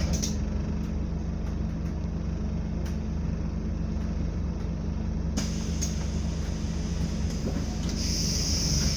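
Scania double-decker bus engine running steadily while the bus is under way, with a hiss near the start and again near the end.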